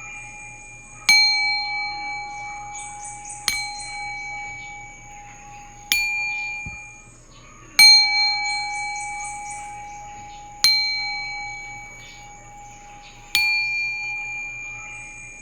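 Metal bells struck one at a time, six strikes about two to three seconds apart. Each rings with several clear high tones that fade out slowly, and each new strike comes before the last has died away.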